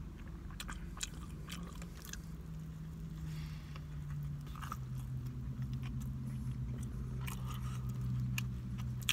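Close-up biting and chewing of a turkey and provolone sub sandwich, with short wet mouth clicks. A steady low hum runs underneath and drops slightly in pitch about halfway through.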